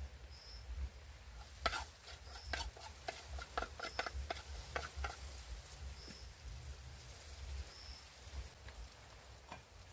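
Tucum palm grubs (gongo) frying in a pan: scattered crackles and irregular clicks of stirring, fairly faint.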